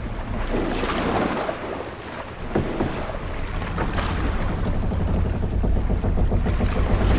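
Ship-at-sea ambience: water washing against a sailing ship's hull over a steady low rumble of wind and sea, with a swell about a second in and a few short sharp knocks from the ship.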